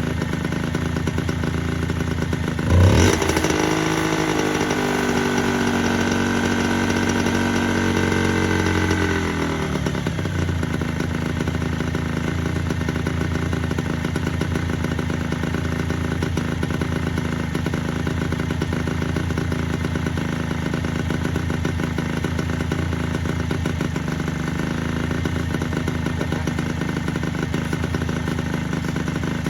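Honda NSR50's 49cc two-stroke single idling. About three seconds in the throttle is blipped and the revs are held up for several seconds, then drop back to idle. The owner says the idle won't settle and suspects a bad carburetor, most likely the slow jet.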